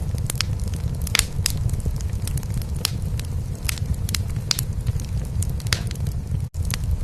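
Wood fire in a fireplace crackling, with irregular sharp pops, over a steady low purring of a cat. The sound drops out for an instant near the end.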